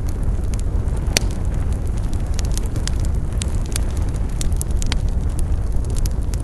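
Wood fire burning: a steady low rumble of flames with frequent sharp crackles and pops scattered irregularly, one louder pop about a second in.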